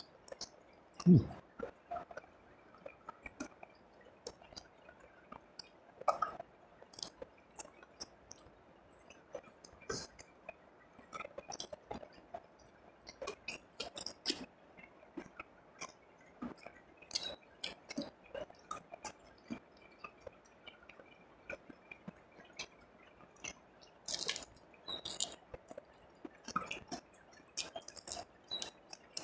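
Close-miked chewing and crunching as a man eats by hand, biting into fresh cucumber and fried snakehead fish, with many short crisp crunches and one louder thump about a second in.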